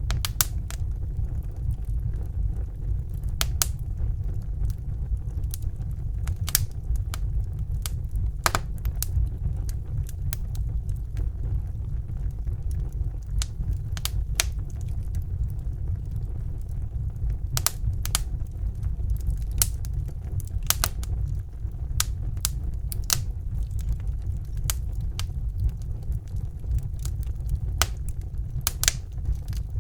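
Wood fire burning in a fireplace: a steady low rumble of the flames with sharp, irregular crackles and pops from the burning logs, several every few seconds.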